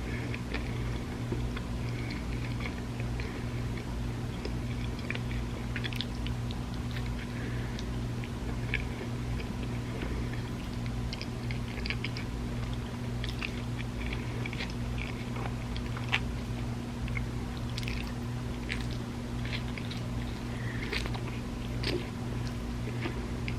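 A person chewing and biting food close to the microphone, with short crunches and mouth clicks scattered irregularly throughout, over a steady low electrical hum.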